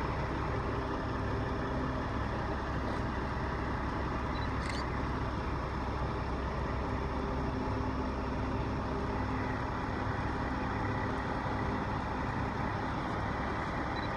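Heavy engine idling steadily, with a faint short click about five seconds in.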